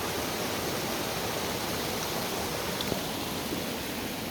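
Floodwater rushing steadily out of a brim-full pond's overflow outlet, a continuous even rush of water.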